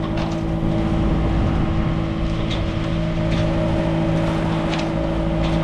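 A motorsailor's engine running steadily under way, a constant low drone with a steady hum.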